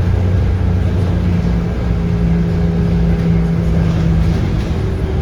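Scania DC9 five-cylinder diesel engine of a Scania K230UB bus with a ZF Ecomat automatic gearbox, running steadily under way, heard from inside the bus.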